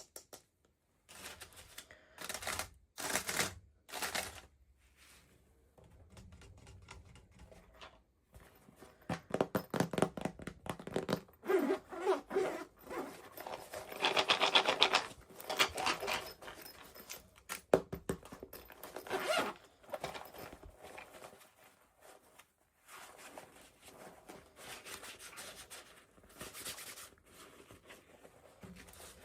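Toy packaging being torn open and handled: a series of short rasping tearing, scraping and rustling bursts, with a sharp click or thunk now and then.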